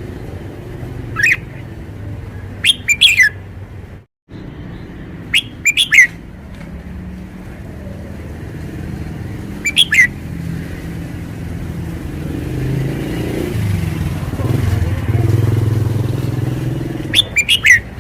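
Red-whiskered bulbul singing short, bright, quick phrases in separate bursts, the loudest just after the middle of the first third and near the end. Under them a low rumble, like passing traffic, swells and fades in the second half.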